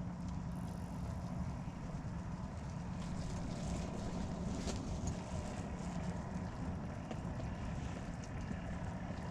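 Strong wind rumbling and buffeting on the microphone, a steady low roar without a break, with a faint constant hum beneath it.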